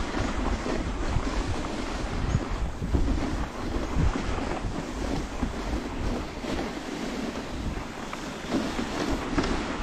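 Dog sled moving along a snowy trail: a steady hiss and rumble of the sled, with wind on the microphone and a few knocks as the sled bumps, around three and four seconds in.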